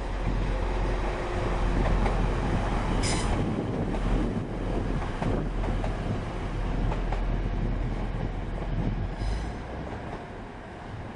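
Passenger train running through a station: a steady rumble of wheels on rail, with short high-pitched wheel squeals about three seconds in and again about nine seconds in, easing off slightly near the end.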